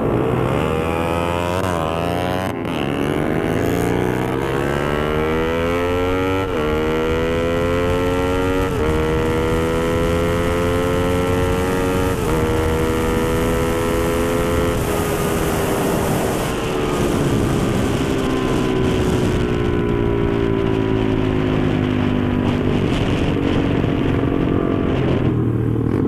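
Honda Sonic 150R's single-cylinder four-stroke engine accelerating hard from a standstill, its pitch climbing through each gear with about five quick upshifts. About halfway through it eases off and the pitch sinks slowly, with wind rushing over the microphone at speed.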